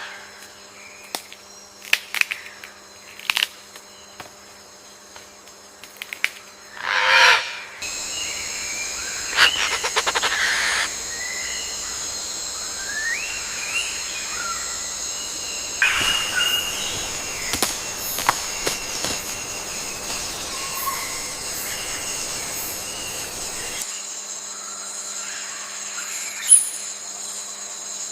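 Amazon rainforest ambience: a steady high insect drone with scattered bird chirps and calls. About seven seconds in, one loud call falls in pitch. The background drone shifts abruptly twice.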